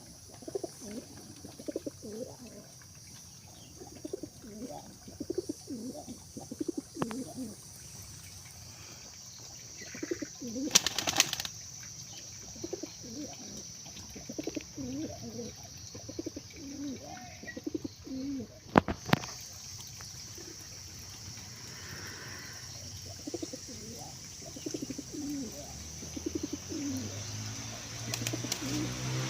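Domestic pigeons cooing over and over, low repeated calls. Two sharp, loud sounds stand out, one about eleven seconds in and one about nineteen seconds in.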